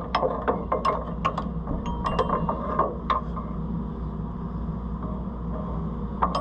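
Ratchet wrench clicking in quick, irregular strokes as a nut is turned on the combine's gathering-chain drive. The clicks are dense for about three seconds, then thin out, over a steady low hum.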